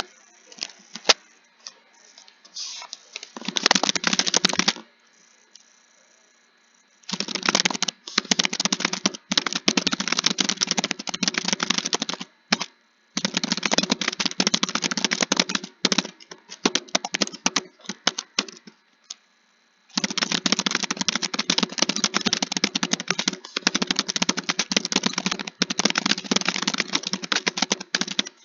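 Computer keyboard being typed on fast, in long runs of rapid keystrokes broken by short pauses of a second or so.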